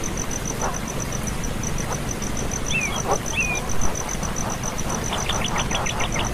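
Small bird calling: two short downward chirps about three seconds in, then a rapid trill of about eight quick notes near the end.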